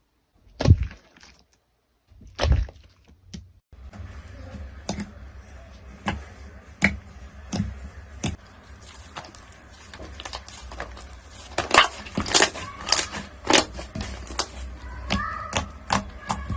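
Crunchy slime being pressed and squeezed, giving sharp crackles and snaps at irregular intervals: a few spaced ones at first, then a denser run from about four seconds in.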